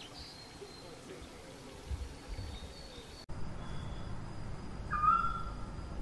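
Outdoor ambience with faint bird chirps, changing abruptly partway through to a steady high whine with short high notes. A single clear whistled bird call, sliding up and then held briefly, stands out about five seconds in.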